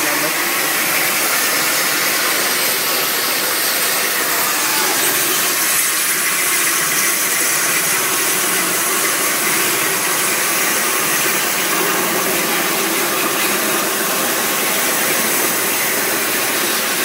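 Plasma cutter running: a steady, loud hiss from the cutting arc and air jet.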